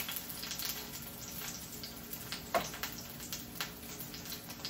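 Lion's mane mushroom crab cakes frying in a little oil in a pan: a soft, steady sizzle with a few sharper pops.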